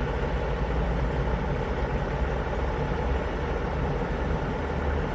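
Heavy truck engine running steadily, a constant low rumble.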